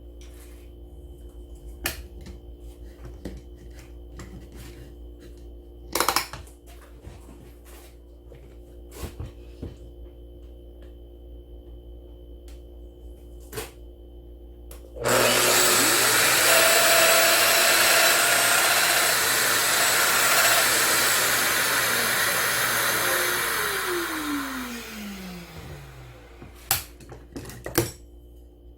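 Scattered clicks and knocks of a tool being handled, then an electric power tool switches on abruptly about halfway through and runs loud with a hissing whine for about nine seconds. It then winds down, its pitch falling as the motor spins to a stop, followed by a few more clicks.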